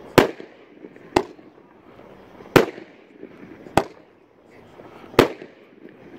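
Legend Fireworks' Crocodile War, a 500-gram, 26-shot consumer fireworks cake, firing aerial shells. Five sharp bursts come about one to one and a half seconds apart.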